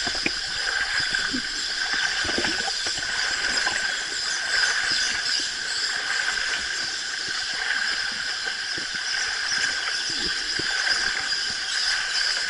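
A waterfall rushing steadily, with a constant high-pitched hiss over it.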